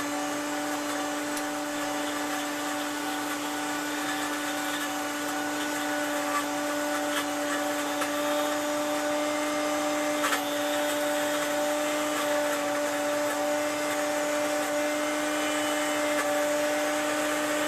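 Blendtec blender running steadily through its timed blend cycle, crushing ice with espresso and mocha frappe mix: an even motor whine with a strong steady hum, growing slightly louder toward the end.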